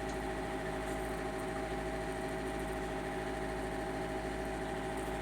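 Steady mechanical hum made of several constant tones over a low rumble, unchanging in level.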